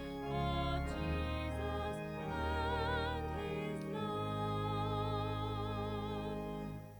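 A singer with strong vibrato sings sustained notes over held keyboard accompaniment, a sung service music piece; the music dies away near the end.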